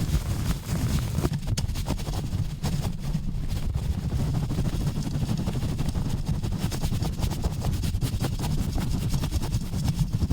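Fast, rough handling directly on a bare microphone: rapid rubbing, scratching and pumping noises with a heavy low rumble and a constant flutter of small clicks.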